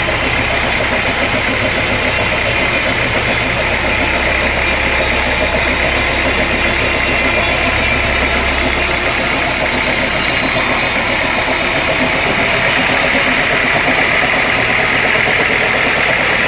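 Sawmill machinery running steadily with an engine drone and a constant hiss; a low hum drops away about nine seconds in.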